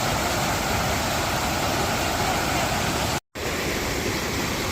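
Waterfall's steady rush of falling water, cut off by a brief complete silence about three seconds in.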